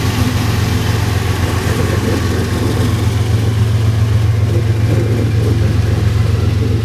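Steady low engine drone with a haze of noise over it, unchanging throughout.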